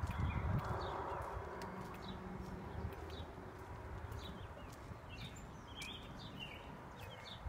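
Small birds chirping now and then, more often in the second half, over a steady outdoor background hum.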